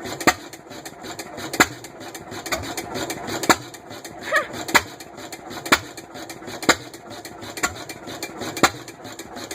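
1926 John Deere hit-and-miss stationary gas engine running, each power stroke a sharp exhaust pop about once a second at slightly uneven spacing as the governor fires it only when its speed drops, with the mechanical clatter of the engine coasting between firings.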